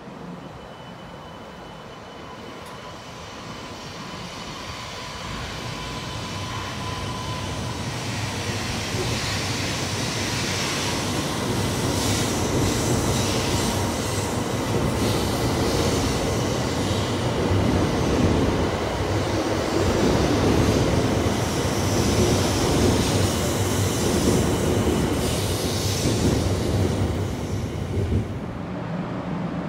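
Shinkansen bullet train running on the line, its wheel and track noise building over about ten seconds, then holding steady before dropping suddenly near the end.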